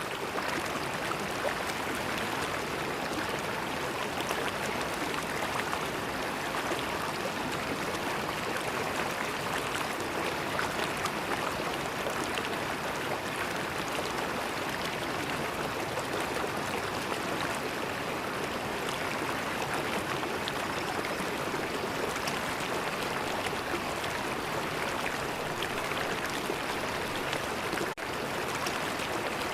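A river flowing: a steady, even rush of water with no other events. The sound drops out for an instant near the end.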